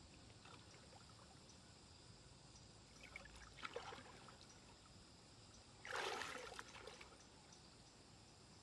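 Faint stream water trickling, with two short splashes of water, the louder one about six seconds in.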